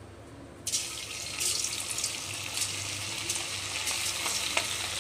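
Marinated chicken pieces dropped into hot oil in a kadai and deep-frying: a sizzle that starts suddenly about a second in as the first pieces go in, then carries on steadily with occasional pops.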